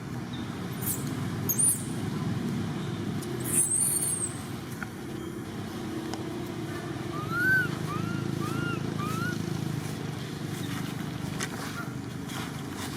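A steady low rumble, like a motor or traffic, with brief high-pitched squeals about one and a half and three and a half seconds in, and a run of four short chirping calls near the middle.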